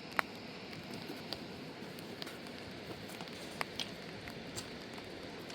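Steady rain with scattered single drops ticking on nearby surfaces; one sharp tick just after the start is the loudest.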